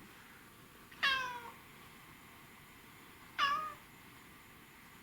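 Domestic cat meowing twice, two falling, drawn-out meows a couple of seconds apart, from a cat shut in a wire crate that she hates being in.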